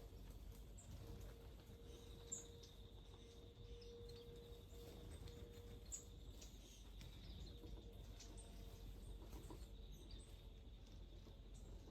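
Faint, scattered short chirps of small wild birds over a steady high-pitched whine and a low background hum.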